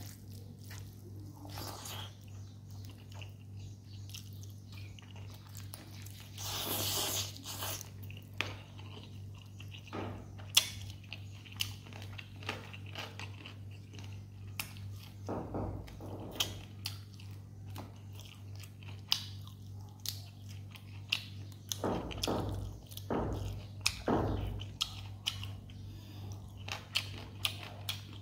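Close-up mukbang eating sounds: crisp crunching bites and chewing of raw green leaves and rice with chicken, many sharp snaps and wet mouth sounds. A louder rush of breathy noise comes about seven seconds in, and a steady low hum sits underneath.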